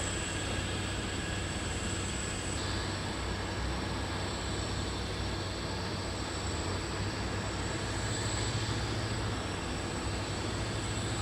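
Jet aircraft engines running steadily at an airport, a constant noise with a thin high turbine whine over a low hum.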